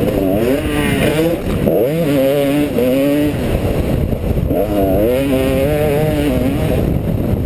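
Motocross bike engine revving hard and dropping back again and again as the rider accelerates, shifts and rolls off over jumps and through turns, with the pitch climbing and falling several times. It is heard close up from a helmet camera, with wind and rough track noise underneath.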